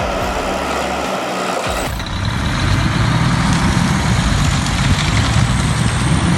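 Heavy vehicle engine running, a low steady rumble that becomes louder about two seconds in.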